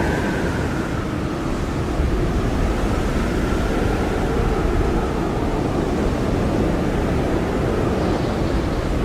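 Blizzard wind blowing hard and steadily, a deep rushing roar with a faint howling tone that slowly rises and falls in pitch.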